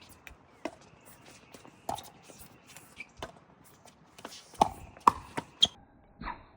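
Pickleball rally: paddles striking the plastic ball with sharp pops, about a second apart at first, then three quicker hits about half a second apart near the end.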